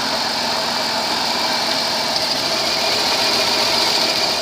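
2005 Chrysler Town and Country's V6 engine idling steadily.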